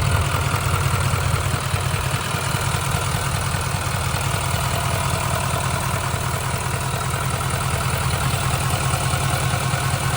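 2019 GMC Sierra 3500HD's Duramax 6.6-litre V8 turbodiesel idling steadily with the hood open. It sounds healthy.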